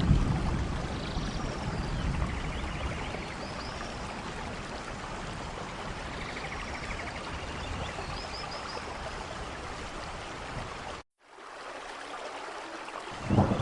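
Steady rain, an even rushing hiss, with faint high chirps a few times. The sound cuts out completely for a moment about eleven seconds in, and a low rumble of thunder comes up near the end.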